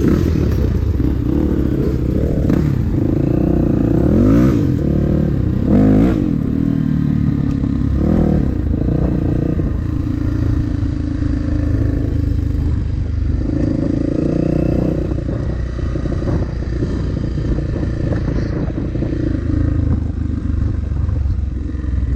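Dirt bike engine running under load, its revs rising and falling as it rides the trail, with clattering knocks mixed in.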